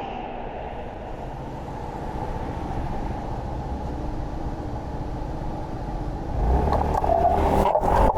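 Road noise on a bicycle-mounted microphone while riding: a steady rumble of car traffic and wind. It grows louder about six seconds in, as a vehicle passes close.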